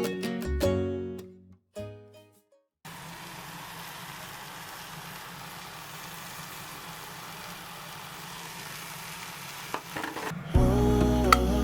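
Steak sizzling steadily in a hot pan for about eight seconds. Background music fades out at the start and comes back in near the end.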